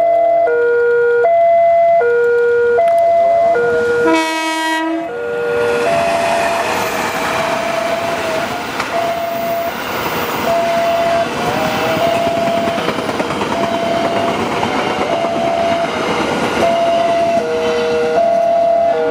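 A railway level-crossing alarm chimes two alternating electronic notes. About four seconds in a diesel locomotive's horn gives one short blast. Then a passenger train rumbles and clatters past over the rails while the crossing alarm keeps chiming.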